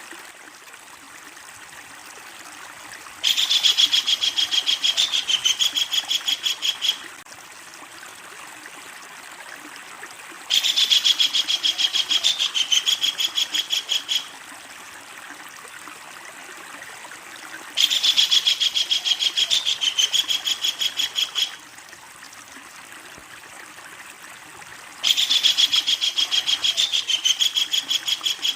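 Kingfisher giving its long, loud chattering call: four bouts of rapid, evenly repeated notes, each lasting about three and a half seconds, with pauses of about four seconds between them.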